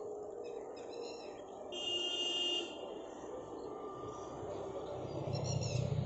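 Small birds chirping in short high calls, with one longer high, even-toned call about two seconds in and a low rumble rising near the end.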